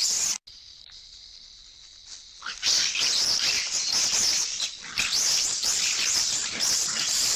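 Monkeys screeching and chattering in high-pitched, restless calls. They break off abruptly about half a second in and start up again loudly about two and a half seconds in.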